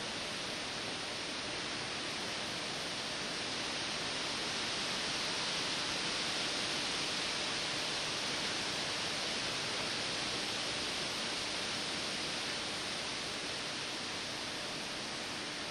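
Wind through the treetops, a steady hiss of moving leaves and branches that swells a little about a third of the way in and eases again toward the end.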